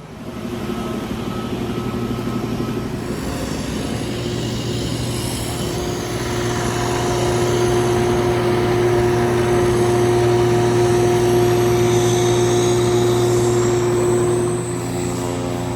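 ATR 72-600 turboprop engines and propellers running, heard from inside the passenger cabin as a steady droning hum. It grows louder about seven seconds in, and a high whine rises in pitch near the end.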